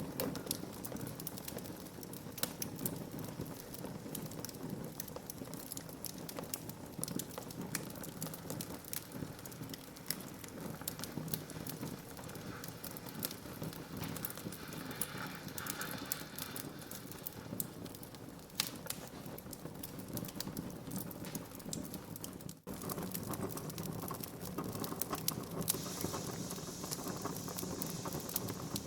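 Wood fire burning in a fireplace, a steady hiss under frequent irregular crackles and pops. The sound drops out for an instant about three quarters of the way through.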